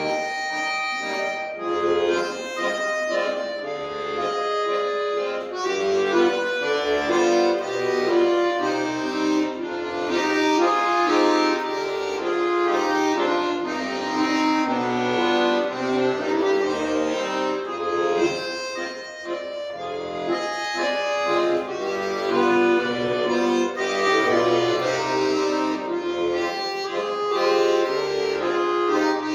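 Accordion playing a piece without pause: a melody over held chords.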